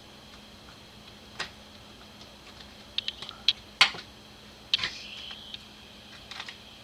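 Irregular sharp clicks and taps of small metal carburetor parts being handled and set down, loudest a little under four seconds in, with a brief metallic ring about five seconds in.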